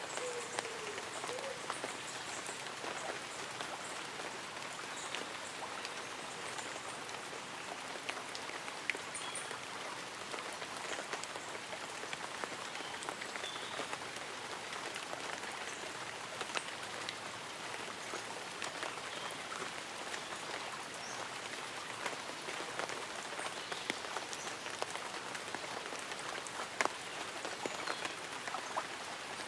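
Light rain falling on tree leaves and an umbrella: a steady patter with many separate drop ticks. Faint high bird chirps sound now and then.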